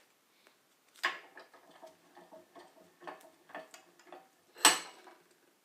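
Copper tubing and hand tools being handled during cleaning and deburring: a string of light metallic clicks and clinks, each with a faint ring. A sharp one comes about a second in and the loudest near the end.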